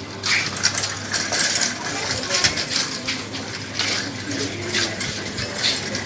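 Irregular metallic clinking and rattling: a wire shopping cart rattling as it is pushed along.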